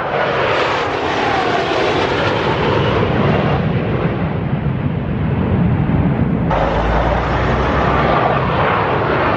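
Loud, steady engine roar of an aerobatic airplane flying a display, with a falling tone in the first second or two as it passes. About two-thirds through, the sound changes abruptly.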